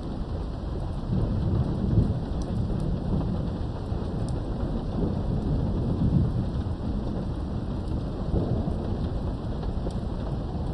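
Steady rain falling with rolling thunder, the low rumble swelling about a second in and again around five to six seconds.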